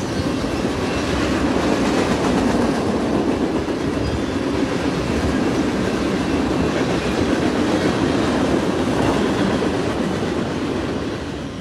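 A train running along the rails: a steady rumble with wheel clatter, easing off near the end.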